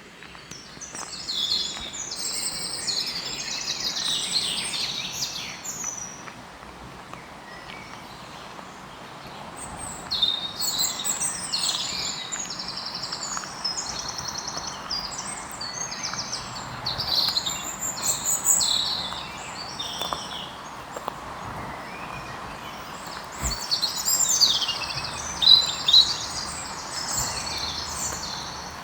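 Songbirds singing in three long bursts of quick, warbling phrases over a steady background noise.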